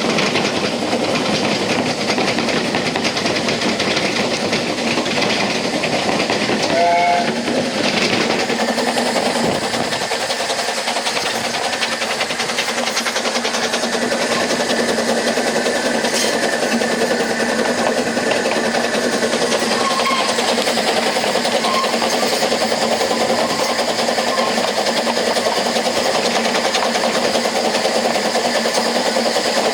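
Narrow-gauge train running, heard from aboard a carriage: steady wheel and rail noise. A short wavering high sound comes about seven seconds in, and a steady high tone holds for about six seconds around the middle.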